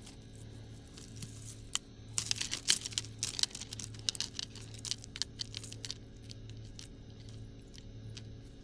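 Weeds and brush being pulled and handled, leaves and stems crackling and tearing in a dense run of sharp snaps from about two seconds in to about six seconds in. A steady low hum runs underneath.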